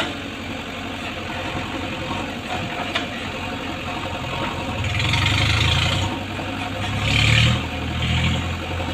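Heavy diesel engine running steadily, then revving up about five seconds in and again briefly around seven seconds.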